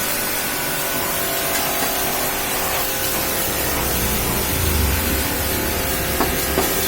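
Pressure washer spraying water: a steady hiss, with a low rumble joining in about four seconds in.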